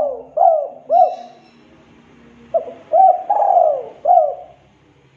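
Spotted dove (tekukur) cooing: the last three coos of one phrase, a pause of about a second and a half, then a second phrase of four coos that includes one longer falling note.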